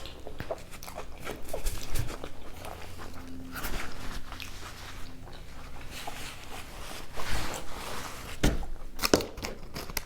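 Close-miked eating sounds: wet chewing, lip smacks and mouth clicks while eating carne asada fries, with a few louder smacks near the end.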